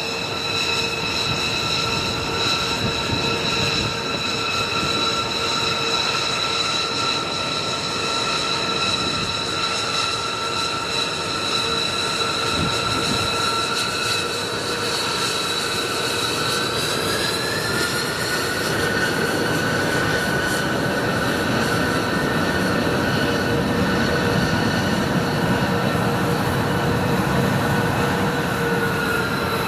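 B-2 Spirit's jet engines running: a steady high whine of several tones over a rushing noise. The whine rises a little in pitch about seventeen seconds in, as the engines spool up.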